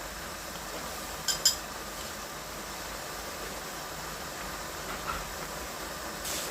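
Two quick ringing clinks of cookware a second and a half in, over a steady hiss, with a softer knock near the end.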